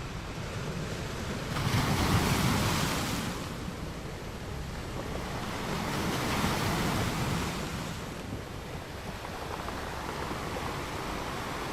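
Ocean waves breaking on a beach, with a steady wash of surf between breaks. The loudest surge comes about two seconds in and a smaller one around six seconds.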